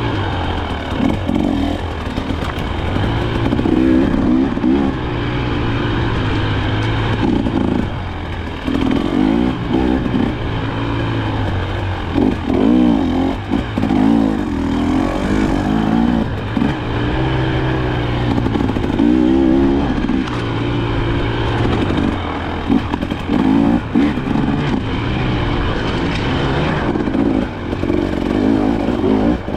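KTM 300 XC-W two-stroke single-cylinder dirt bike engine being ridden, its pitch rising and falling over and over as the throttle is opened and closed.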